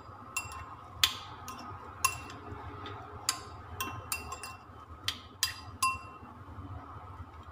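A utensil clinking against a microwave dish while stirring cooked beef lung pieces: about a dozen irregular, sharp clinks, each with a brief ring.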